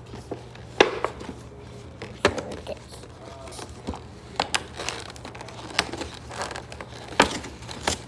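A toy truck and its packaging being handled: about half a dozen irregular sharp clicks and light knocks over a faint steady hum.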